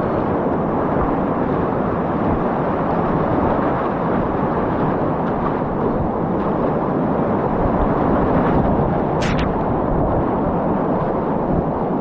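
Whitewater rapids rushing loudly and steadily around a kayak, a continuous noise with no let-up. A brief sharp sound stands out about nine seconds in.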